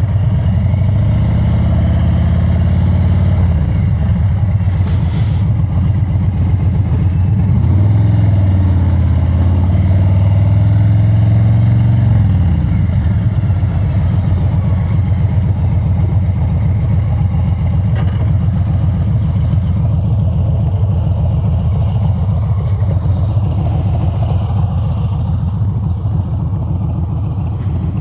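Harley-Davidson Street Bob 114's Milwaukee-Eight V-twin through an aftermarket exhaust, riding under load. The engine note climbs twice under throttle, in the first few seconds and again from about eight to twelve seconds in, then settles to a lower, steady run.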